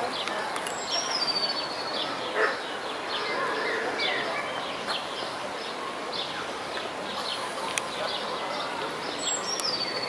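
Small birds chirping repeatedly in short falling notes, with a longer falling whistle about a second in and another near the end, over a steady outdoor background hiss.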